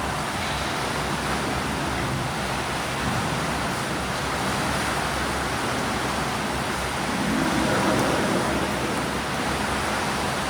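Swimming pool ambience: a steady wash of noise from swimmers' splashing water, swelling a little about seven seconds in.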